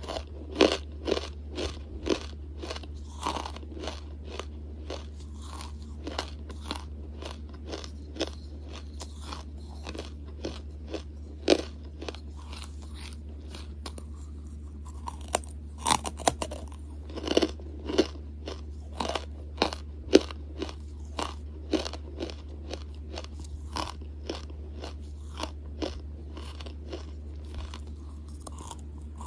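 Close-miked bites and chewing of hard charcoal lumps: a long run of sharp, irregular crunches as the charcoal breaks between the teeth. A steady low hum runs underneath.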